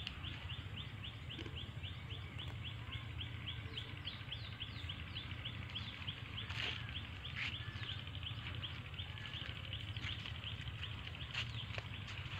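A small bird calling a fast, even series of short high chirps, about five a second, stopping about seven seconds in. Beneath it are a faint steady low rumble and a few scattered clicks.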